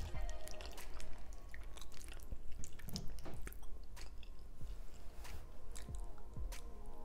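A person chewing and smacking close to the microphone while eating oxtail with rice, giving many short, irregular wet clicks and smacks.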